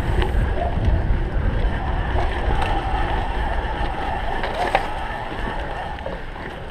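Wind buffeting the microphone of a camera riding along on a cyclocross bike in a race, with rolling noise from the bike and a few sharp clicks and knocks as it rides over rough ground.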